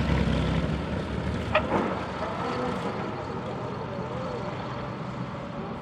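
Propeller airplane engine drone fading away within the first second, then a weaker steady engine rumble and background noise.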